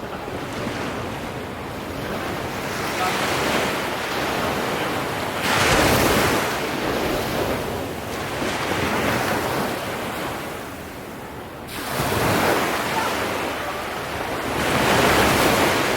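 Ocean waves breaking and washing up on the shore, the surf swelling and fading about every three seconds.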